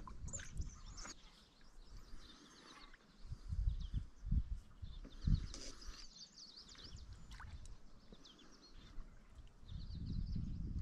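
Small birds chirping in short, high phrases several times over, with a few dull low thumps near the middle.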